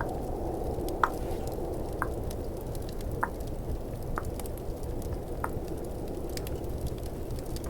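Mouth tongue clicks, about five roughly a second apart, over a steady snowstorm wind ambience with the faint crackle of a fireplace.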